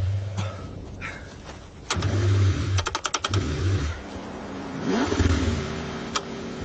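Car engine revving in uneven bursts, with rising pitch sweeps. A quick run of sharp clicks comes about three seconds in.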